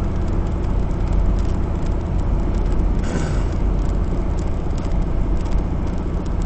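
Steady engine and road noise inside a semi truck's cab while it drives.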